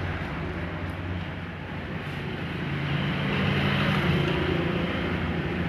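An engine running steadily, growing a little louder about three seconds in.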